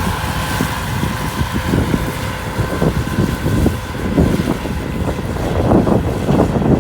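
Massey Ferguson 274S tractor running with a PZ drum mower, a steady engine drone under irregular rumbling buffets that are typical of wind on the microphone.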